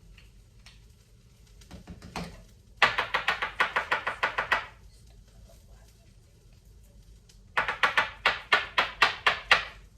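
Quick, hard tapping while ground espresso is settled into an espresso maker's filter basket: two runs of about a dozen taps each, roughly six a second, the second starting a few seconds after the first, with a few softer knocks just before the first run.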